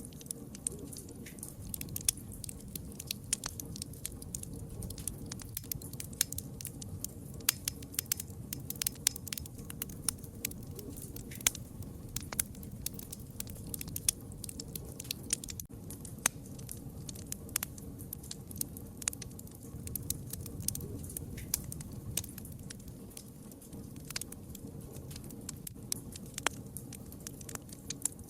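Wood fire crackling: frequent sharp, irregular pops and snaps over a low, steady rumble of burning.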